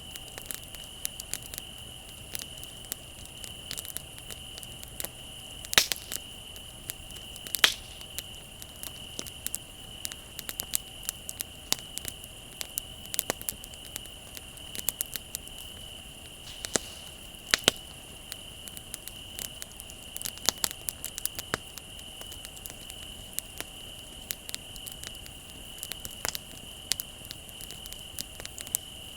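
Wood bonfire crackling and popping, with a few sharp louder pops. Crickets trill steadily behind it.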